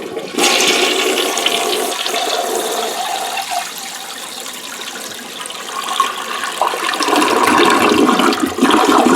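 A toilet flushing: water rushing and swirling loudly for about nine seconds, then cutting off abruptly.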